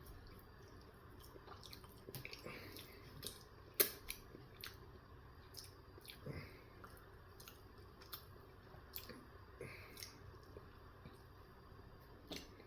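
Faint, close-up chewing of a McDonald's breakfast sandwich: irregular soft, wet mouth clicks and smacks, the sharpest about four seconds in.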